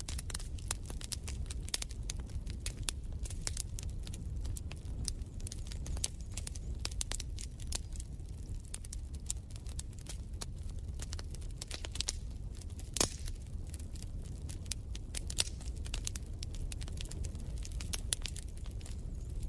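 Wood fire crackling in a fireplace: irregular sharp crackles and pops over a steady low rumble, with a louder pop about thirteen seconds in.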